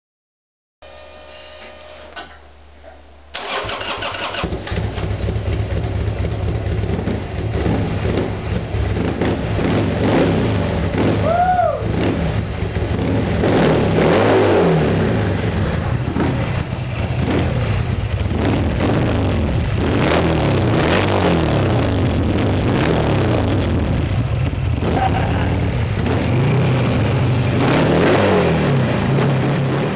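Buell XB12R's air-cooled V-twin starting up about three seconds in, then running and being revved repeatedly, its exhaust note rising and falling with each blip of the throttle.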